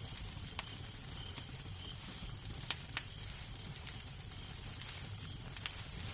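Wood fire crackling in a fireplace: irregular sharp pops and snaps over a low steady rumble, with two louder snaps close together a little before the middle.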